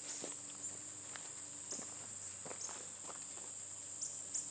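Insects, likely crickets, keeping up a steady high-pitched trill, with a few faint scattered clicks.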